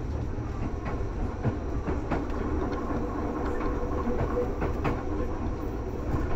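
Seibu 2000 series electric train (set 2525F) running at speed, heard from inside the car: a steady low rumble with irregular sharp wheel clicks over the rail joints.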